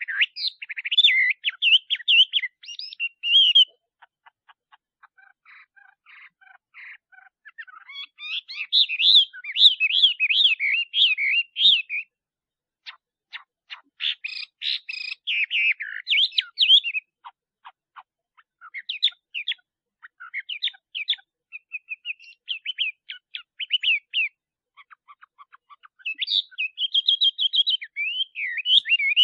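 Male Chinese hwamei singing: phrases of rapid, varied whistled notes, in bursts of a few seconds separated by short pauses.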